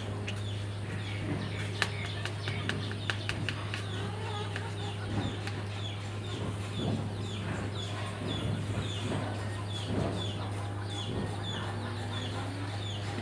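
Birds calling: a short falling chirp repeated about twice a second, with clucking like that of chickens and a steady low hum underneath. A run of light clicks comes about two seconds in.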